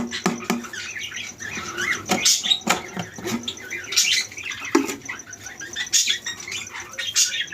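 Many caged birds in an aviary chirping and calling over one another, a busy irregular chatter of short sharp chirps and squawks.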